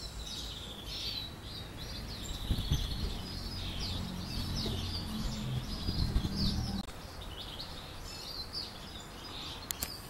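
Small birds chirping: a steady stream of short, high, quickly falling chirps, with a low hum underneath for a few seconds midway.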